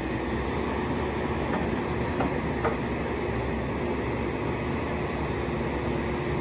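JCB 215E backhoe's diesel engine running steadily while the hydraulic extend-a-hoe is worked, with a few light clicks around two seconds in.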